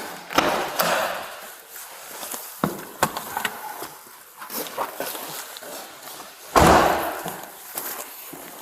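Footsteps and small clicks of movement, with two heavy door slams: one about half a second in and a louder one about six and a half seconds in, each with a short echo after it.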